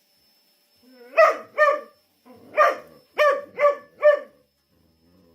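A dog barking six times: short barks that each drop in pitch, a pair followed by a run of four.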